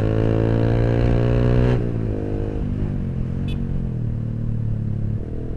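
Yamaha YZF-R15's single-cylinder engine through a custom Purbalingga racing exhaust, held at steady revs under throttle. About two seconds in the throttle closes and the engine drops to lower, quieter revs as the bike slows.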